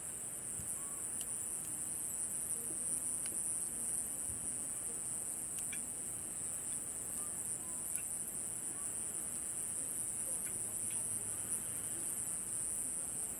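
A steady, high-pitched chorus of summer night insects trilling without a break, with a few faint scattered clicks.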